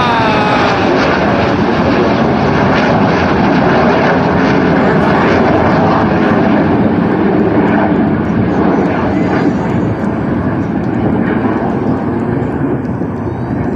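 Jet aircraft passing in a display flypast: a loud, continuous engine rush that thins out and fades over the last few seconds as the aircraft move away.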